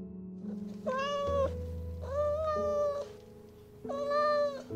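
A domestic cat meowing three times, each meow under a second long and the first the shortest, over background music.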